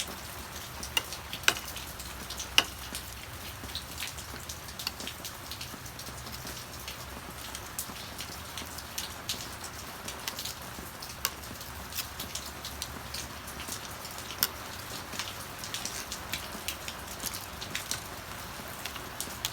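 Steady rain falling, with many irregular sharp ticks of drops striking a hard surface.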